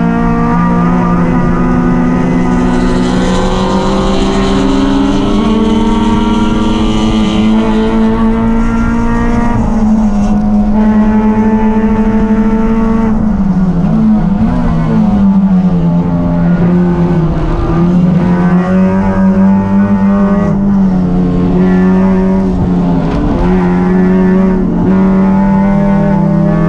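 Racing engine running hard and continuously, its note held high with short dips in pitch about halfway through as the throttle is lifted and picked up again.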